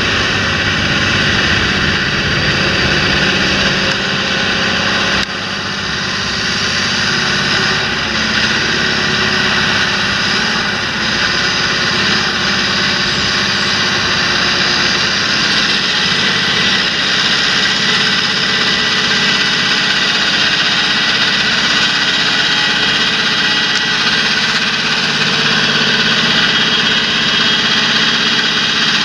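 A large John Deere tractor's diesel engine running steadily and loud, with a constant high whine over the drone; the level dips suddenly for a moment about five seconds in.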